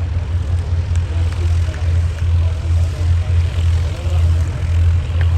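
Propeller aircraft piston engines droning steadily overhead, a low drone that swells and fades a little. These are de Havilland Chipmunks, with 145-horsepower Gipsy Major engines, flying a formation display.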